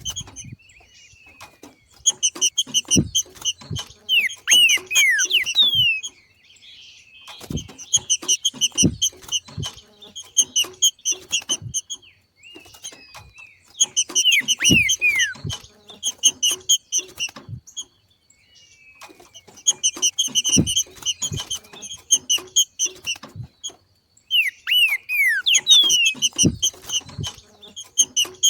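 A green-winged saltator (trinca-ferro) gives its 'macheado' call, the chattering breeding-season call used to excite other trinca-ferros into singing. It comes in repeated bouts of about four seconds: a fast run of high notes with a few downward-sliding whistles, mixed with short low knocks, and a brief pause between bouts.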